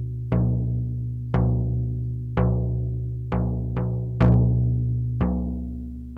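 Shamanic drum beaten in a slow, steady pulse of about one stroke a second, with one quick extra stroke midway; each deep stroke rings on and fades slowly before the next.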